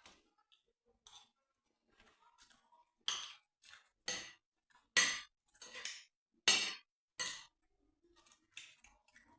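Spoon clinking and scraping against a plate during a meal of stew and rice, in a string of irregular short clinks, the loudest about halfway through.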